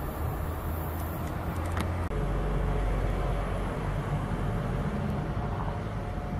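Steady low rumble of a freight train hauled by an electric locomotive, approaching from a distance, with a faint steady hum over it. The sound changes abruptly about two seconds in.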